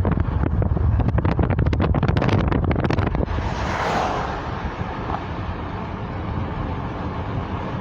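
Wind buffeting a phone's microphone through an open car window over the low rumble of the car driving slowly. The buffeting crackles hard at first and eases about three and a half seconds in.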